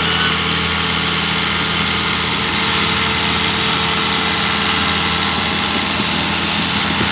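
Tractor diesel engine idling steadily at an even pitch.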